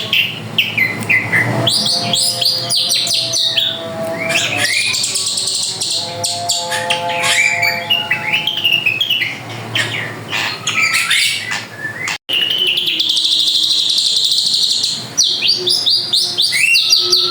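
Drongo singing in full voice: a long, varied song of quick sweeping whistles and chattering phrases, with a brief cutout about twelve seconds in.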